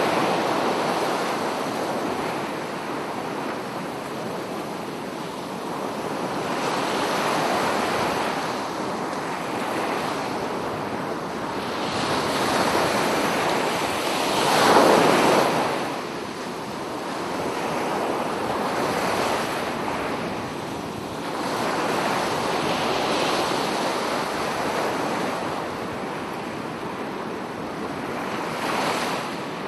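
Sea waves breaking and washing on the shore, swelling and fading every few seconds, with one louder wave about halfway through.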